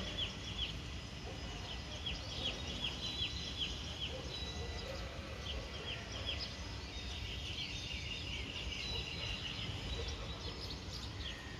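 Small birds chirping in rapid runs of short, high, downward notes, thicker in the second half, over a steady low rumble of outdoor background noise.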